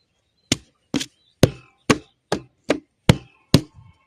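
A run of eight sharp knocks or slaps, evenly spaced at about two a second.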